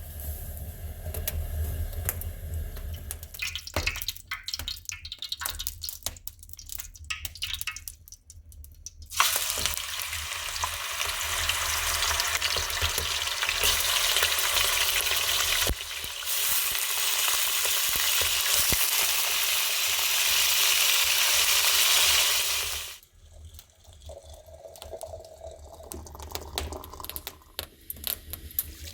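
Wood fire crackling with scattered sharp pops. About nine seconds in, a loud steady hiss starts suddenly, runs for about fourteen seconds and cuts off, and then the crackling and clicks carry on.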